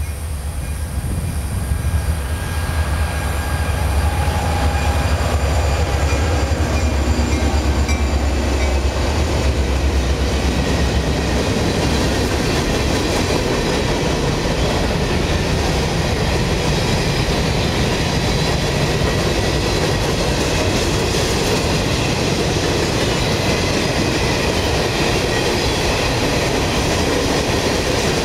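Freight train passing close by. Diesel locomotives rumble past in the first ten seconds or so, then covered hoppers and tank cars roll by with wheels clicking over rail joints and a faint high squeal.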